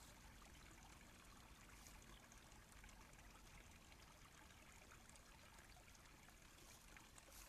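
Near silence: a faint, steady hiss with a few faint ticks.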